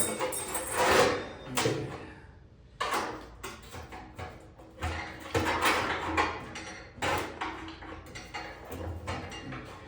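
Irregular clanks, knocks and scraping of heavy metal pieces being handled and shifted about, in an uneven run of separate hits.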